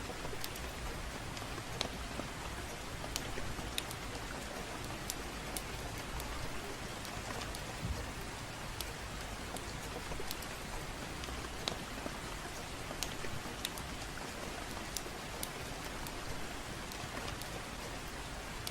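Steady gentle rain mixed with a crackling fireplace: an even hiss of rain with sharp pops and crackles scattered irregularly, one or two a second.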